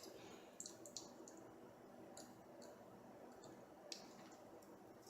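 Near silence broken by a handful of faint, irregularly spaced clicks: small 3D-printer kit parts and tools being handled during assembly.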